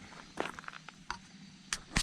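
A few scattered short clicks and knocks, irregular and a second or so apart, over a faint steady low hum.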